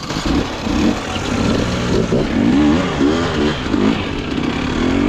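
Dirt bike engine running and being revved in short bursts, its pitch rising and falling several times.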